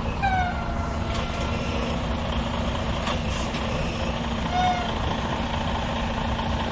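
Semi truck's diesel engine running steadily while the tractor-trailer is backed toward a loading dock, with a short squeal right at the start that falls slightly in pitch and a second brief squeal about two-thirds of the way through.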